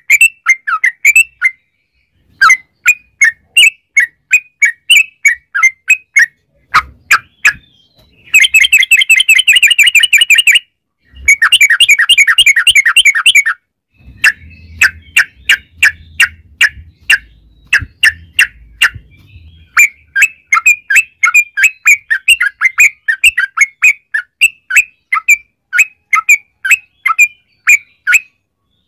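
Yellow-vented bulbul (trucukan) song: quick bubbling chirps in short phrases, breaking twice into long fast rattling trills about eight and eleven seconds in.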